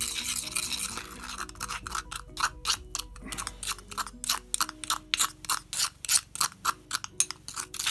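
Metal spoon stirring thick watercolour paste in a stone mortar: a quick run of clicks and scrapes, about five a second, as the spoon circles against the mortar wall. Faint background music underneath.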